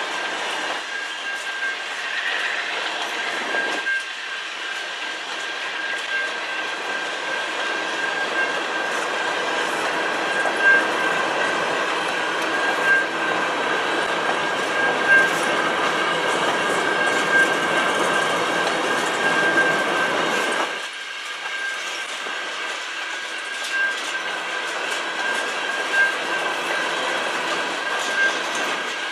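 Covered hopper cars of a freight train rolling past: steady wheel-on-rail noise with a clack from each car's wheels about every two seconds, over a steady high whine. The low rumble thins about 21 seconds in.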